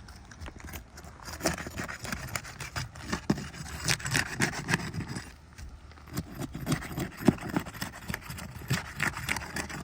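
A roof snake worked under asphalt shingles, scraping and crackling unevenly as it breaks the sealant strips loose. There is a sharper snap about seven seconds in.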